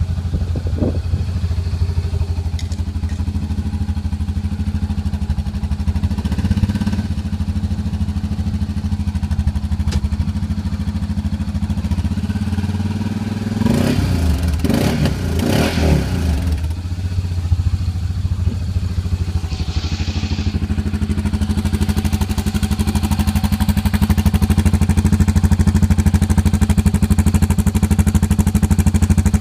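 Honda Pioneer side-by-side's engine running through an HMF aftermarket exhaust, idling steadily. About halfway through it is revved in a few quick blips, then settles back to idle, a little louder near the end.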